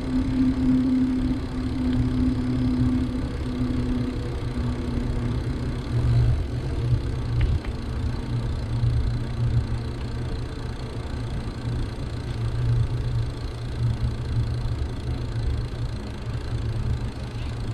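Wind buffeting the microphone of a camera carried on a moving bicycle: a gusty low rumble that rises and falls, with a faint steady hum during the first few seconds.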